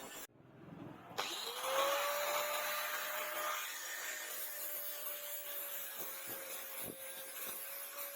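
Small electric power tool starting up about a second in, its whine rising in pitch and then holding steady as it runs, with a few light clicks.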